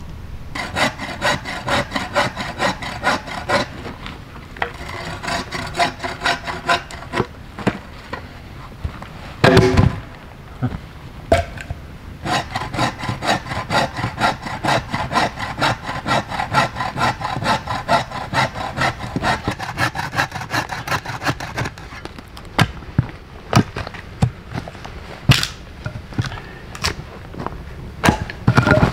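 Hand saw cutting through wood in runs of steady back-and-forth strokes, with short breaks between the runs. A heavy thump comes about a third of the way in, and a few sharp knocks follow near the end once the sawing stops.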